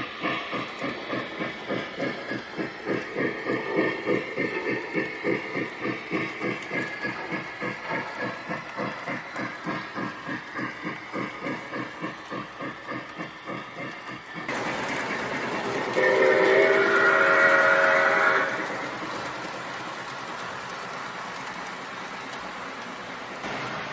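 Lionel Polar Express Berkshire model locomotive's electronic steam sounds: a rhythmic chuffing of about three beats a second, then steady hissing with a whistle blown once for about two seconds past the middle.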